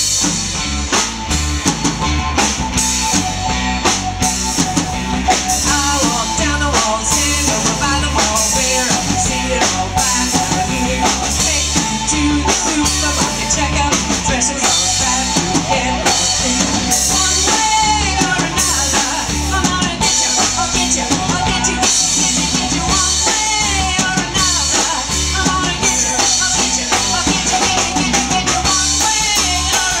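Live rock band playing an instrumental passage with no singing: a full drum kit, bass drum and snare, keeps a steady driving beat under the other instruments.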